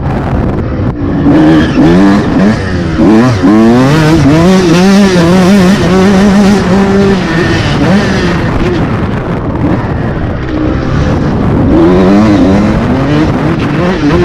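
A 125cc motocross bike engine revving hard and easing off as it is ridden around the track. Its pitch climbs and drops again and again with throttle and gear changes.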